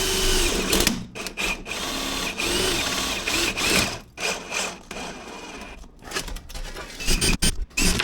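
Power drill driving sheet metal screws in short bursts, its motor whine rising and falling with each squeeze of the trigger, with a few sharp clicks and knocks near the end.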